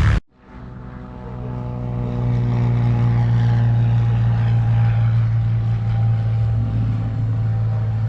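Light propeller aircraft engine running with a steady drone, growing louder over the first two seconds and then holding even.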